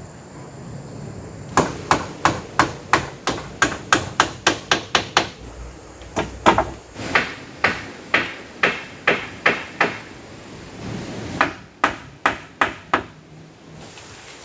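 Repeated sharp blows of a tool striking wood, about three a second, in three runs with short pauses between them, as in chopping or hammering. Steady rain continues underneath.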